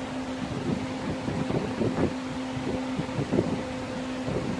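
A putty knife scraping and tapping irregularly as liquid vinyl is spread over a cut in a vinyl bus seat cover, over a steady, even hum.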